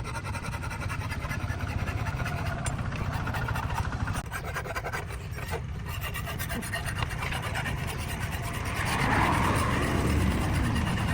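Grinder tool grinding the edge of a steel sickle blade: a continuous rasping scrape of metal against the abrasive, growing louder about nine seconds in.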